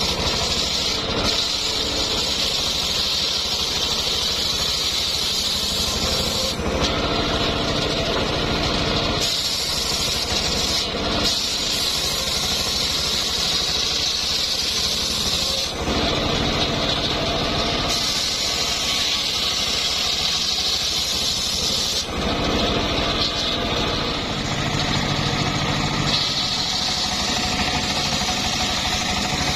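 Engine-driven homemade circular sawmill running steadily while ripping an old mahogany log, the engine's low pulsing under the saw's higher sound, which changes every few seconds as the blade goes in and out of the cut.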